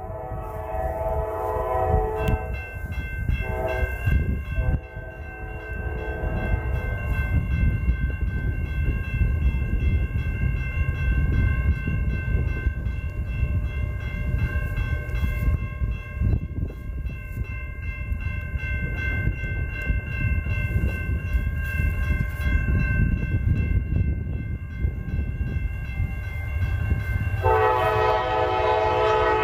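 Freight train locomotive horn blowing long blasts at a grade crossing, over the low rumble of the passing train. A railroad crossing bell rings steadily through the middle. The horn stops about seven seconds in and blows again near the end.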